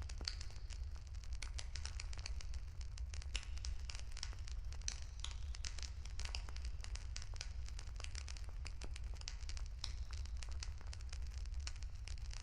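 Wood fire crackling, with dense, irregular sharp pops and snaps over a low steady rumble.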